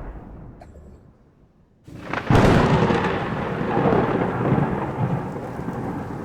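Thunderstorm: a rumble of thunder dies away, then about two seconds in a sudden sharp crack of thunder breaks into a long, loud rumble, with rain falling.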